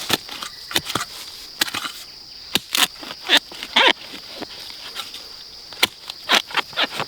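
Dry fallen leaves crunching and rustling in irregular bursts, as they are stepped on or pushed aside, over a steady high insect drone.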